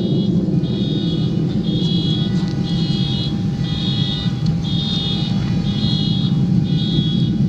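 Car horns sounding in a regular pattern, a short beep about once a second, over a steady low rumble from the F/A-18's low fly-by.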